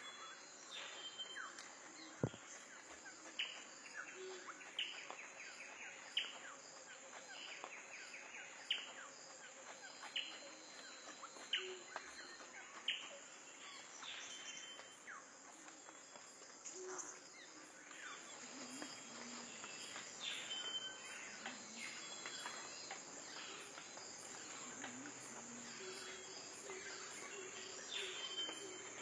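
Small birds giving short, sharp chirps, repeated about once a second at first and more sparsely later, over a steady high buzz of insects.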